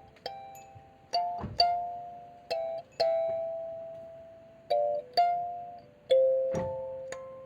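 Kalimba played in a slow melody, about eight plucked notes that each ring on and fade away, with faint high tinkles from a small wind chime.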